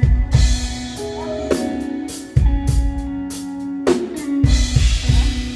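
Live band playing a worship song instrumentally: a drum kit with kick drum hits and cymbal crashes over held chords.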